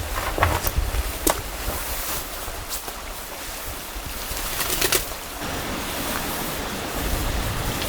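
Steady rush of flowing water, with a few sharp clicks and knocks about half a second in, just after a second, and near five seconds.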